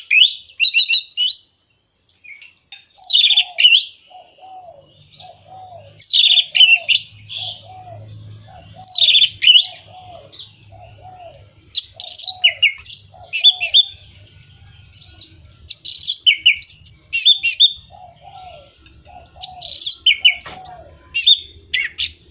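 Orange-headed thrush singing: loud, varied, rapid song phrases in bursts every two to three seconds. A quieter low call repeats about twice a second behind it through the middle.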